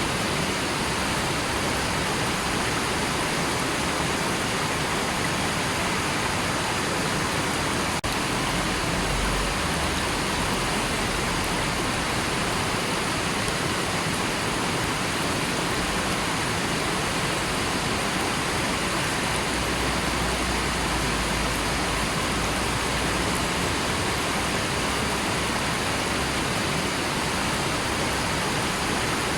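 River water flowing in a steady, even rush, with a faint low rumble that swells briefly about nine seconds in and again around twenty seconds in.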